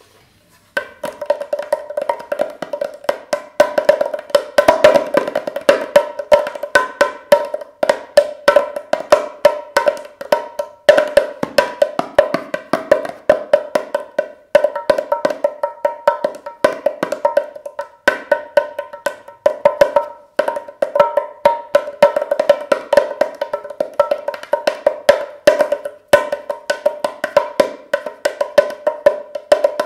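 The small drum of a Moroccan tbilat pair, a handmade clay drum with a goat-skin head, is played with the fingers. Quick, steady strokes begin about a second in and keep up a busy rhythm, each stroke giving a bright, ringing, fairly high drum tone.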